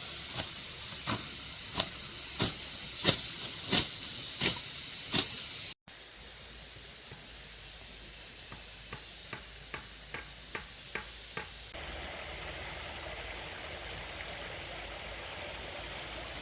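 Repeated sharp striking knocks, about one and a half a second, over a steady hiss. After a cut about six seconds in, fainter, quicker knocks follow. From about twelve seconds a steady rushing like running water takes over.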